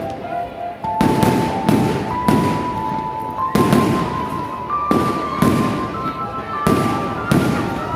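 Fireworks going off in quick succession, about ten sharp bangs roughly half a second to a second apart. Under them runs music, a held tone climbing step by step in pitch.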